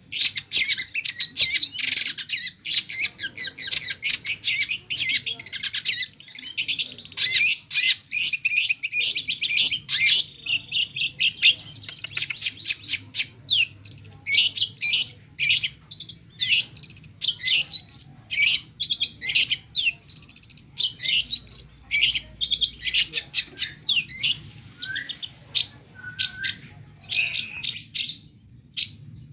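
Long-tailed shrike singing loudly in a fast, nearly unbroken stream of chattering, trills and mimicked calls of other birds, with a few short pauses. A faint steady low hum lies underneath.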